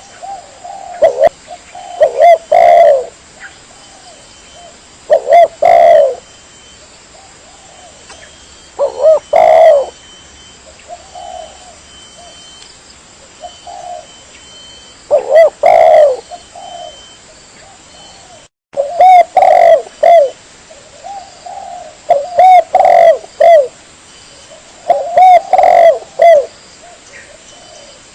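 Spotted dove (tekukur) cooing loudly and close, a lure call: groups of two to four short, rounded coos repeated every few seconds.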